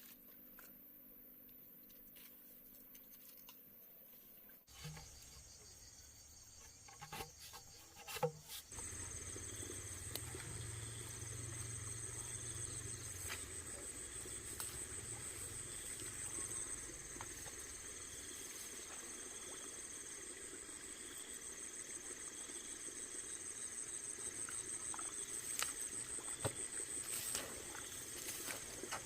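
Insects trilling steadily in a high, even tone, with a slow regular pulse. A few light knocks and clicks from handling early on and again near the end.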